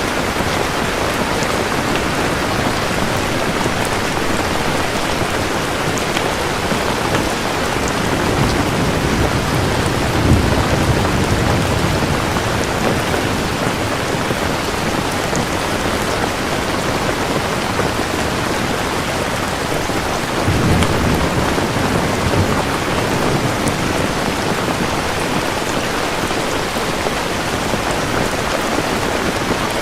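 Steady heavy rain with rolling thunder: low rumbles swell about a third of the way in and again about two thirds of the way in.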